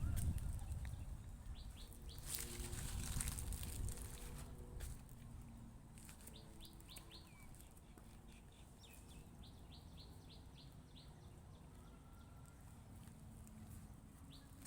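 Small birds chirping in quick runs of short high notes, with a low rumble and a brief rush of noise in the first few seconds.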